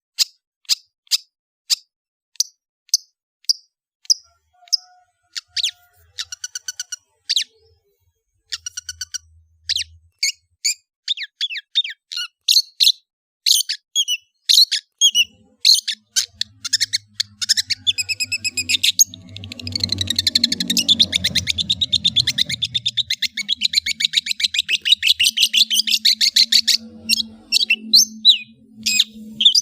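Long-tailed shrike (cendet) singing: sharp single notes about two a second, quickening into fast runs and short rattles, then a dense, unbroken chatter from about twenty seconds in that breaks back into separate notes near the end. A faint low hum sits beneath the second half.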